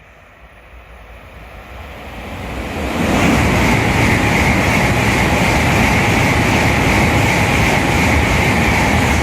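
Shinkansen bullet train passing through at high speed without stopping. It builds over about three seconds into a loud steady rushing noise with a hiss near 2 kHz, which begins to fall away right at the end.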